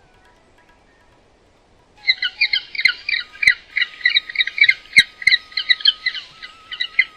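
A bird squawking in rapid repeated high calls, about six a second, starting about two seconds in.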